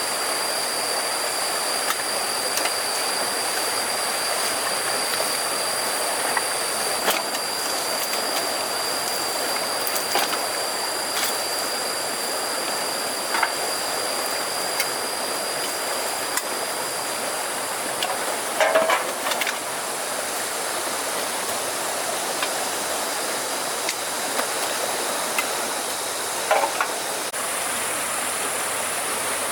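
Steady rushing noise of flowing river water, with a faint high steady tone until about two-thirds of the way in, and a few scattered clicks and knocks, the loudest cluster a little past halfway.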